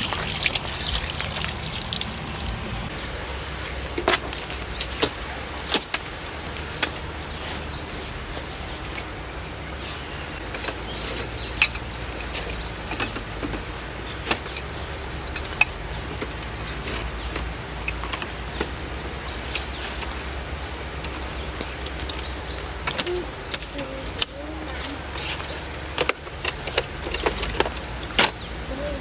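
Forest ambience of birds chirping with many short, quick calls, over a steady background wash and a low hum. Sharp taps of water drops land here and there.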